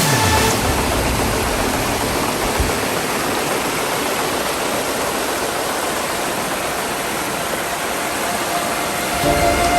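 Creek water pouring over a waterfall, running full after heavy rainfall: a steady, even rushing.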